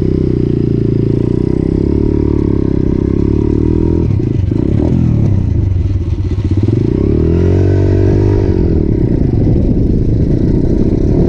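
Motorcycle engine running under way, its revs falling and rising a few times.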